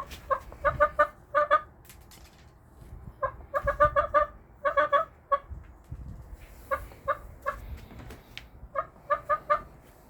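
Pet hen clucking in three quick runs of short, pitched clucks.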